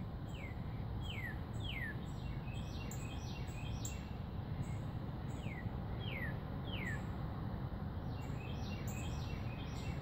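A bird singing two phrases, each of three down-slurred whistles, over insects chirping in a fast, even high-pitched pulse. A steady low background rumble runs underneath.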